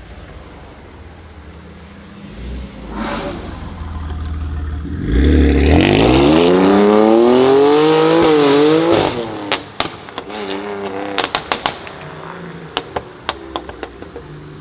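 BMW M4 F82's twin-turbo inline-six with a Milltek exhaust accelerating hard, its pitch climbing steadily for about four seconds with a brief dip near the top. When the throttle is lifted, the exhaust gives a run of sharp crackles and pops on the overrun.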